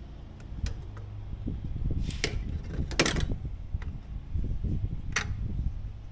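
Metal tools and parts clinking and scraping against each other while being handled, with three sharp clinks about two, three and five seconds in over a low rumble of handling noise.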